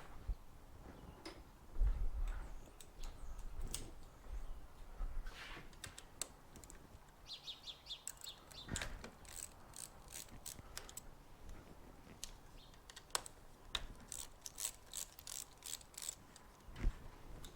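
Hand ratchet wrench clicking in short runs as fasteners are worked on the motorcycle, with scattered knocks and clinks of tools and metal parts.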